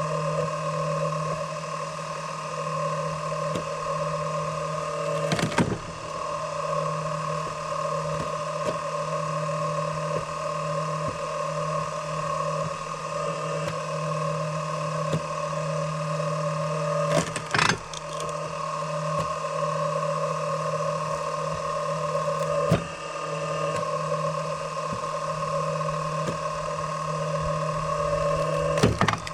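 An engine running steadily at a constant speed, with four sharp knocks spread across the stretch, typical of wood being struck or split.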